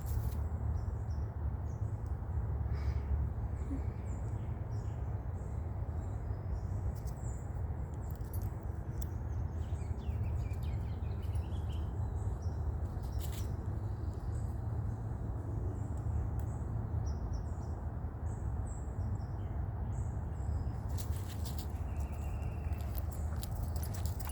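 Faint, scattered bird chirps over a steady low rumble, with a few sharp clicks near the end.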